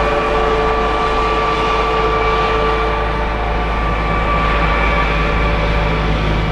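Jet airliner engines running loud and steady, a rumbling roar with high whining tones over it.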